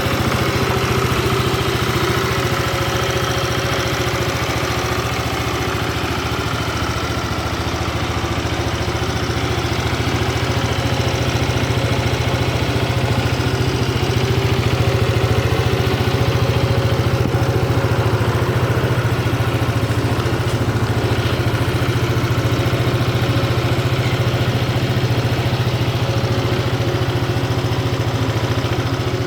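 Yamaha Cygnus X 125 FI scooter's single-cylinder four-stroke engine idling steadily, heard at the exhaust.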